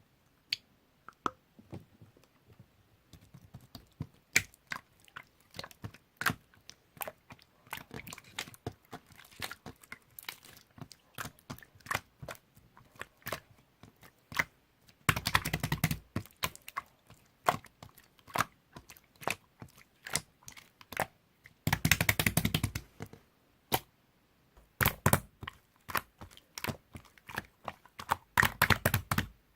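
Clear blue slime being squished and poked by hand, making sharp clicks and pops, with four spells of rapid crackling.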